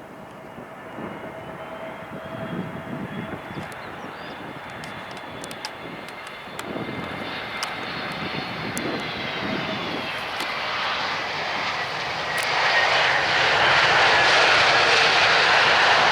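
Jet airliner's engines growing steadily louder as it comes closer, with a faint high whine that slowly shifts in pitch; the noise rises sharply about three-quarters of the way in.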